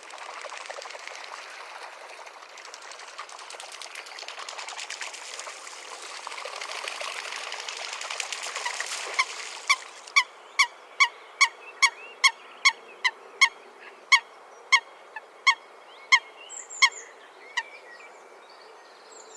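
A coot calling: a series of about seventeen short, loud, evenly spaced calls, roughly two a second, starting about nine seconds in and slowing slightly toward the end. Before the calls, a rushing noise without pitch builds up.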